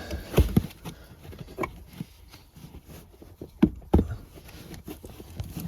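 A few sharp clicks and knocks of plastic trim clamps being lifted and the thick cargo-floor carpet and cover being handled, with quiet rustling between.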